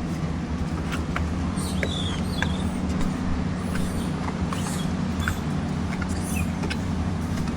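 Steady low engine hum, like a motor idling, with a few brief high chirps and clicks over it.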